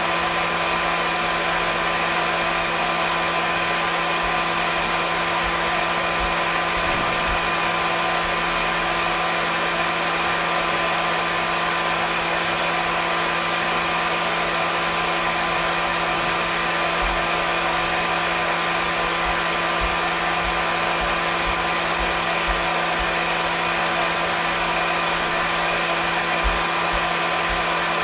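Hair dryer running steadily: an even rushing blow with a constant motor hum and whine.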